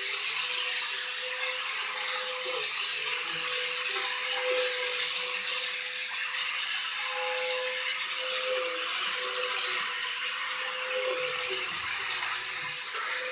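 Vacuum cleaner running steadily: a constant motor whine over a rushing hiss.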